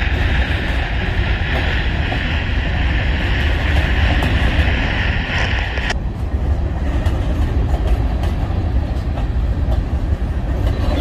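Covered hopper cars of a BNSF grain train rolling past: a steady rumble of wheels on rail. A higher hiss over it cuts off abruptly about halfway through.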